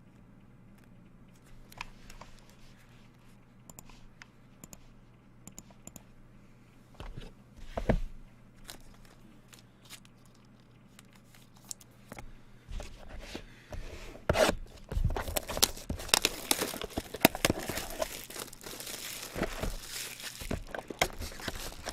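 Trading-card packaging being torn open and crinkled, after several seconds of faint scattered clicks and handling noises; the tearing and crinkling start about two-thirds of the way in and keep going.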